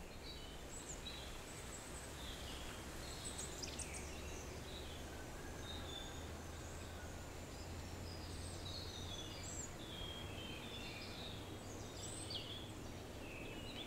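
Faint outdoor ambience of birdsong: many short chirps and twittering calls from several small birds, over a steady low hum.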